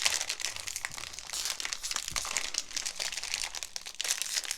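Crinkling plastic wrapper of a strawberry Pocky packet being handled, a dense run of irregular crackles.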